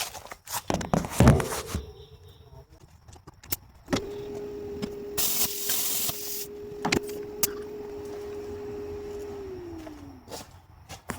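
Handheld electric power tool cutting a small piece of sheet steel: after a few knocks of handling it starts about four seconds in, runs at a steady pitch, bites into the metal with a loud hiss for about a second, then is released and winds down near the end.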